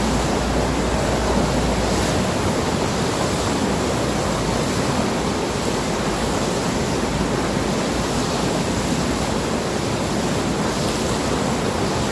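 A steady rushing noise without any distinct events, running evenly throughout.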